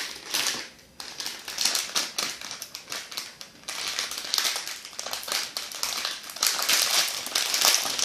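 Plastic instant-noodle packet crinkling and crackling as it is handled and opened.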